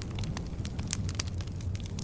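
Firewood burning in a fireplace: frequent, irregular sharp crackles and pops over a steady low rumble of the flames.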